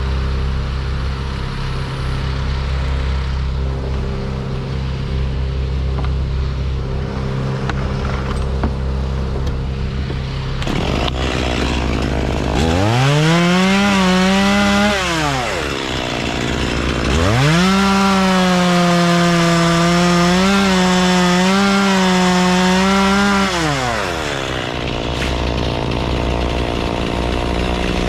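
A steady low engine idle, then a chainsaw opened up to full throttle twice: a short burst about halfway through and a longer one of about six seconds. Each time the pitch rises quickly, holds high and drops back.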